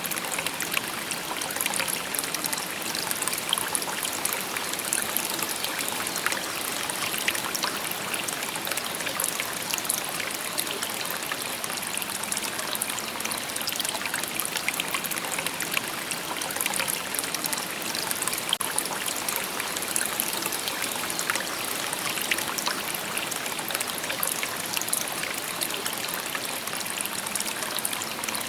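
A shallow river babbling over stones: a steady, even rush of water with many small splashes and trickles.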